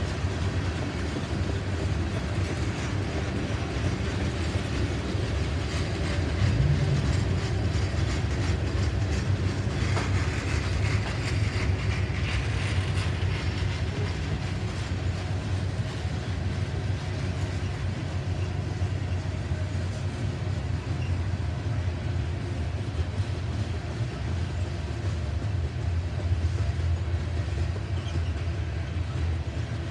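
Freight train tank cars rolling past: the steady low rumble of steel wheels on the rails.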